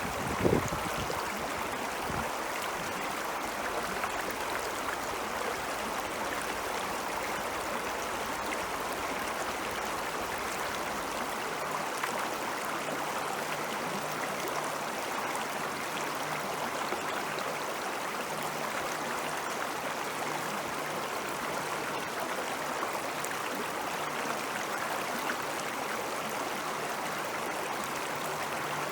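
Ice-melt water flowing in a stream, a steady even rush. A brief low thump about half a second in.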